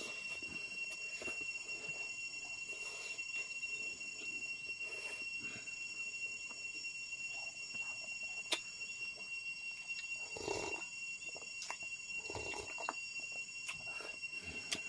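Eating sounds from someone eating rice and noodles by hand: chewing and mouth smacks with small scattered clicks, and a louder smack about ten seconds in and another two seconds later. Underneath is a steady high-pitched whine.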